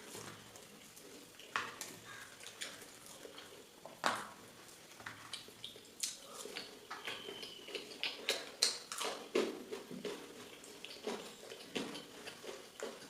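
A person eating: chewing and mouth sounds, with scattered sharp clicks and taps of food and hand against a plate.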